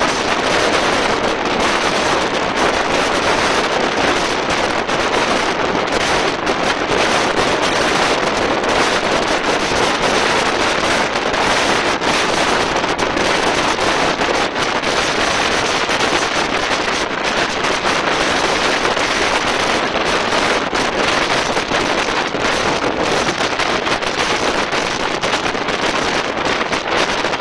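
Steady, loud rushing noise of an express train running at speed, heard at its window, with wind buffeting the microphone.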